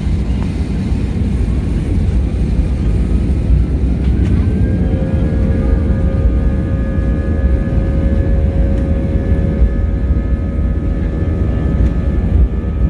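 Airliner engines heard from inside the cabin: a loud, steady low rumble, with an engine whine that rises about four seconds in and then holds steady.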